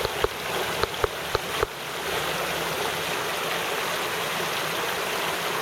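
Rain-swollen creek running high, a steady rush of flowing water. A few sharp clicks sound in the first second and a half.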